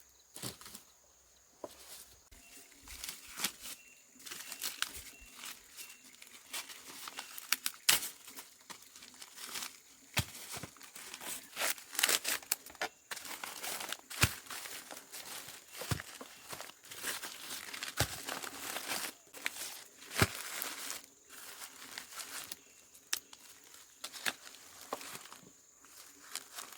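Dry corn husks and leaves rustling and tearing as corn is handled, with sharp snaps at irregular intervals.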